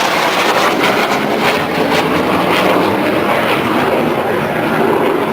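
Loud, steady engine noise of military aircraft flying overhead.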